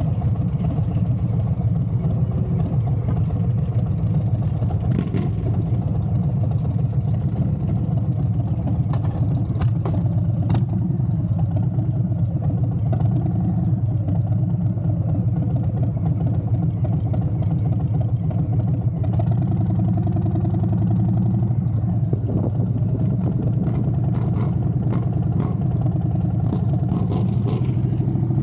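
Motorcycle engine running steadily under way, a continuous low drone with slight changes in pitch after about twenty seconds.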